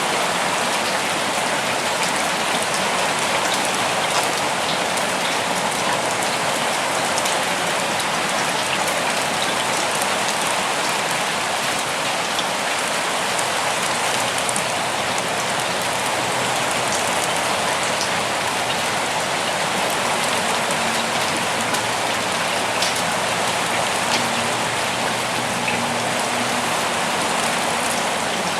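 Steady rain falling: an even hiss with scattered sharp ticks of single drops striking surfaces.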